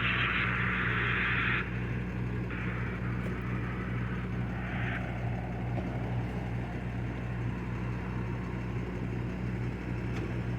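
A vehicle engine idling with a steady low hum, under a loud hiss that cuts off about a second and a half in and then returns more faintly for a few seconds.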